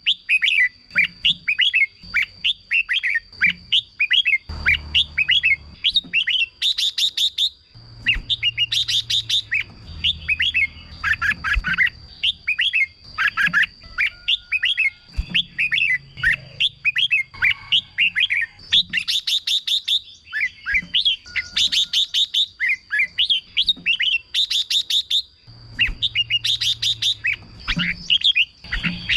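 Red-whiskered bulbuls singing in quick, continuous runs of short chirped phrases. About eight times, a brief rasping chatter of rapid strokes cuts in. A steady thin high tone runs underneath.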